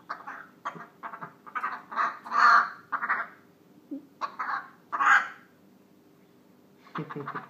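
Pet parrot giving a run of harsh, croaking squawks in bursts, loudest about two and a half seconds in, with more calls around five seconds in and a short cluster near the end.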